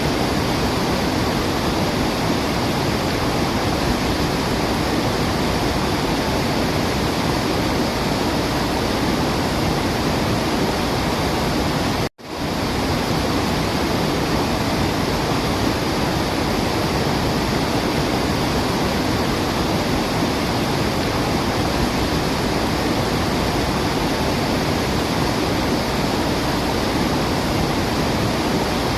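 Waterfall with a steady, even rush of water and no birdsong. The sound cuts out for an instant about twelve seconds in and swells straight back, like the seam of a looped recording.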